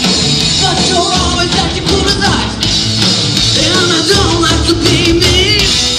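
Live rock band playing a song, loud and continuous.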